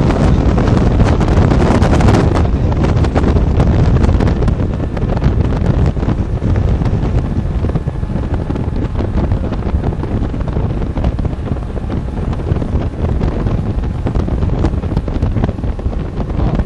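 Wind buffeting the microphone aboard an aluminium motorboat under way, over the steady run of its outboard motor and the rush of water. It is a little louder in the first couple of seconds.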